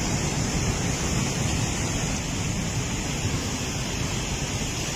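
Heavy rain pouring steadily in strong wind, a dense even hiss with low rumbling buffeting underneath.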